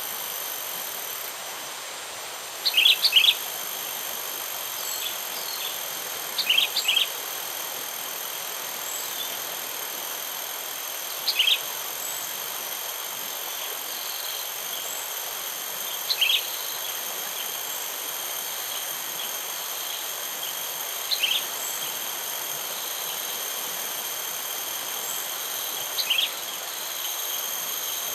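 Sooty-headed bulbul calling in short loud phrases about every five seconds: a decoy bulbul calling out to wild bulbuls. Steady insect trilling and a constant hiss run underneath.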